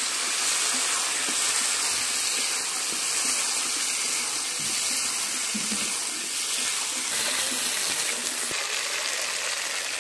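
Potato and fish pieces sizzling steadily in hot oil in an iron wok (karahi), stirred with a metal spatula.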